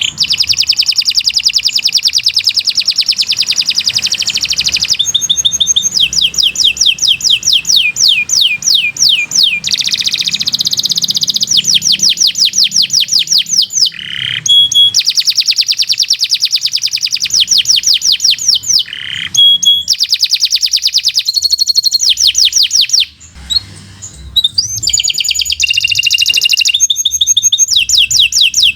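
Domestic canary singing a long, nearly unbroken song. Phrase follows phrase, each a fast trill of evenly repeated high sweeping notes, with a short pause about four-fifths of the way through.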